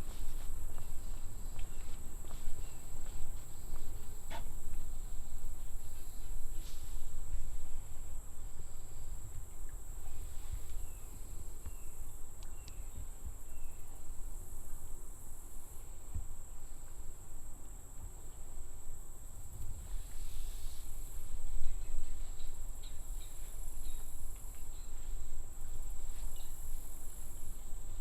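Insects droning outdoors in a steady, high, unbroken tone, with a pulsing hiss above it. Footsteps on the trail and a low rumble run underneath.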